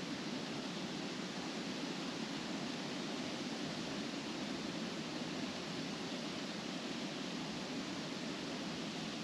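Wind blowing steadily through trees, the leaves rustling in an even, unbroken hiss.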